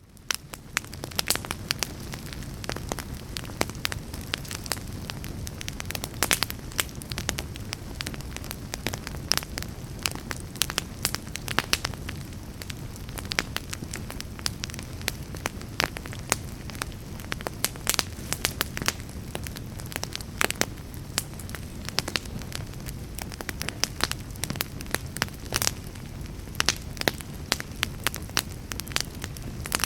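Fire burning in a fireplace: a steady low rumble of flames with frequent sharp crackles and pops at irregular intervals. It fades in from a brief hush at the very start.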